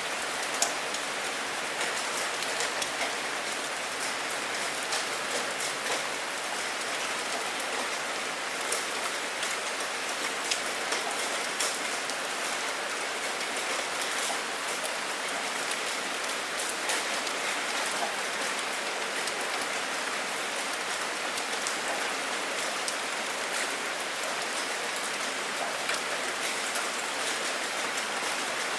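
Steady rain falling: a dense, even hiss with frequent sharp drops ticking through it.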